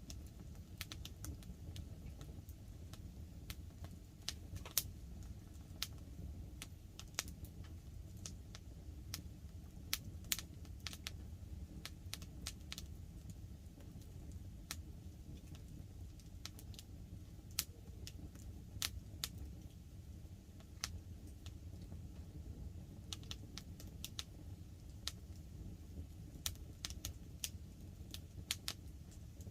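Wood fire crackling: sharp, irregular snaps and pops, a few a second, over a low steady rumble.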